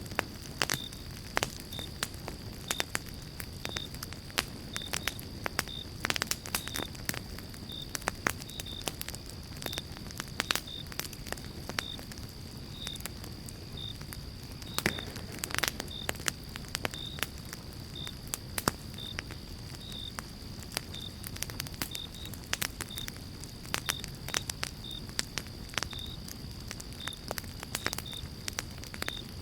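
Pine-log campfire crackling and popping over a low, steady rumble of flame, with sharp pops every second or so and a couple of louder ones, about six seconds in and again around fifteen seconds.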